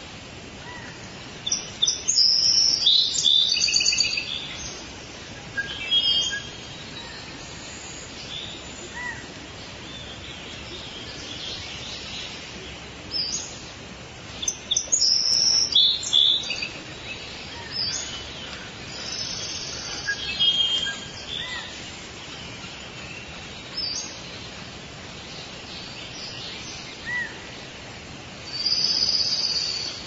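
Songbirds singing in short, high-pitched bursts of song every few seconds, over a steady background hiss.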